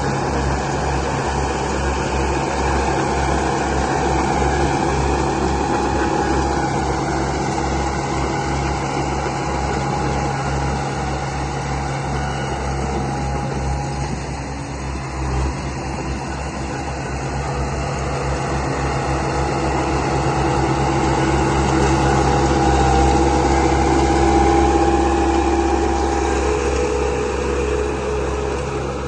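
Remote-control construction models running, a bulldozer and a dump truck: a steady motor hum and whine that shifts slightly in pitch now and then, growing a little louder about three-quarters of the way through.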